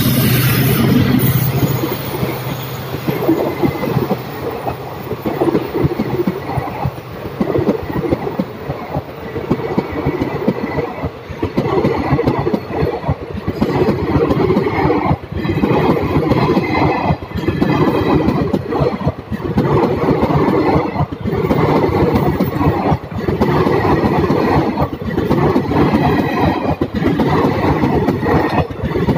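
A long express train's passenger coaches rush past close by at speed, the wheels clattering in regular groups about every two seconds. A low hum from the two passing locomotives is heard in the first second or so.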